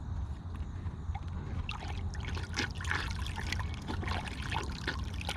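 Water sloshing and dribbling in the bowl of an automatic horse waterer, in small irregular splashes that pick up about two seconds in.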